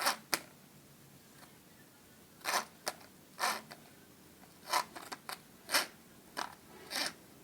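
Hand saw cutting multiplex plywood in short, uneven strokes, about ten rasping strokes with irregular pauses between them.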